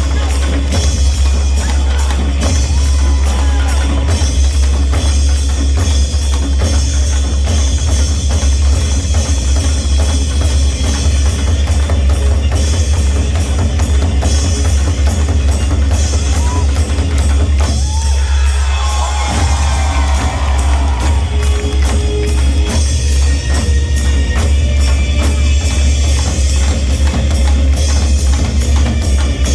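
Korean buk drums played in a fast, dense, unbroken rhythm.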